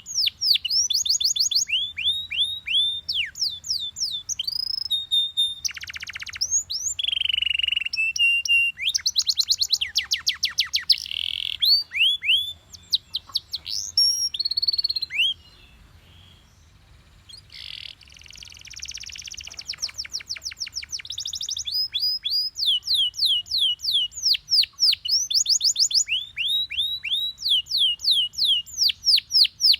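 Yellow Belgian canary singing: fast rolls of rapidly repeated, downward-sweeping whistled notes that change from one phrase to the next. It breaks off for about two seconds halfway through before starting again.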